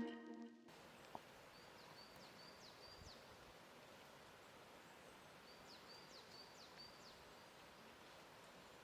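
Faint outdoor ambience with a small bird chirping in two short runs of quick, high notes. A guitar music track cuts out just at the start.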